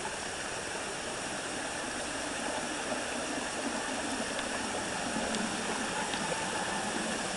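Waterfall and stream water rushing over rocks, a steady, even rush.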